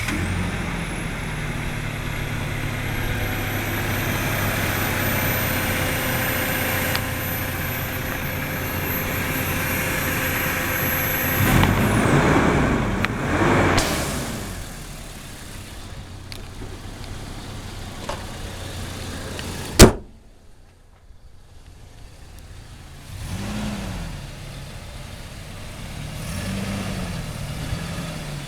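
Toyota Tacoma pickup engine idling steadily just after starting, with a faint high whine, then revved twice about twelve seconds in. A single loud sharp bang near twenty seconds follows, after which the engine is much quieter and is blipped twice more.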